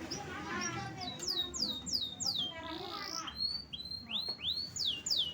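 Domestic canary singing: a quick run of high whistled notes each sliding downward, about four a second, then a few slower notes sliding upward.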